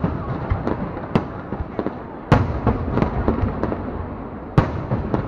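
Aerial fireworks going off in an irregular run of bangs and crackles over a continuous rumble. Two louder booms come a little over two seconds apart.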